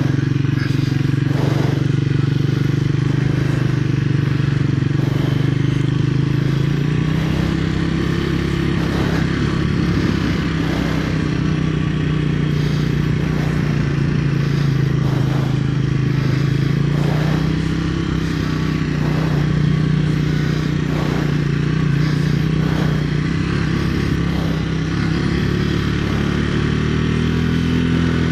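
Single-cylinder engine of a Triumph Speed 400 motorcycle running under way. The note rises and falls with the throttle and climbs near the end as it revs up.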